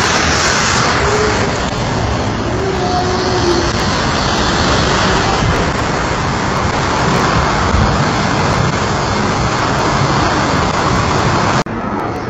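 Train running at speed through deep floodwater beside a platform: a loud, steady rush of train noise and water spray thrown up off the tracks. It drops abruptly near the end, and a quieter rush continues.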